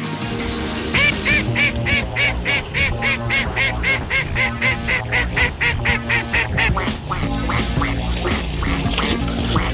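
A duck quacking in a fast, even series of about four quacks a second for some six seconds, then fading, over background music.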